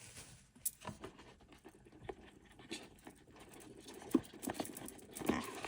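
A sketchbook and its paper packaging being handled: scattered light taps and soft rustles, with a few sharper clicks.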